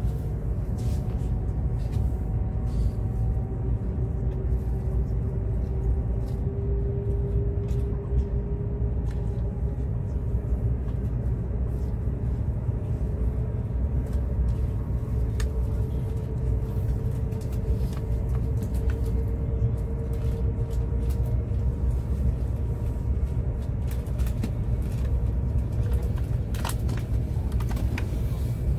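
Inside a high-speed bullet train's passenger cabin at speed: a steady low rumble, with a faint whine that slowly rises in pitch.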